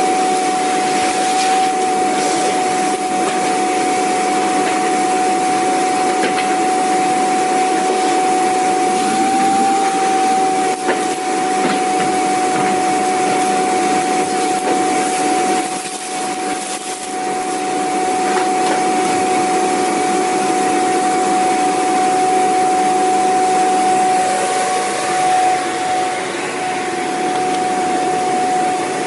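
Vacuum cleaner motor running steadily, a high whine over a broad rushing hiss of air, with a brief dip in loudness about halfway through.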